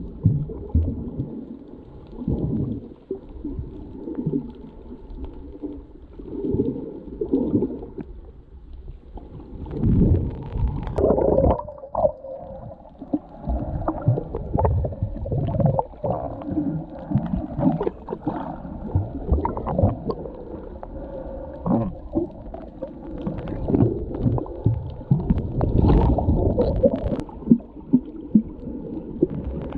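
Water heard through a submerged GoPro camera's housing while snorkeling: muffled gurgling and rumbling that swells and fades unevenly, with no high sounds.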